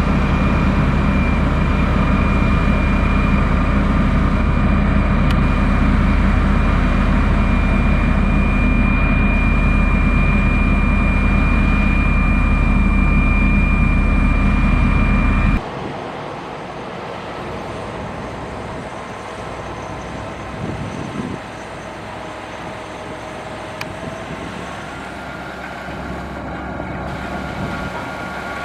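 Diesel engine of a motor grader running steadily and loud, with a steady high whine over it. About halfway through it drops suddenly to a much quieter engine sound.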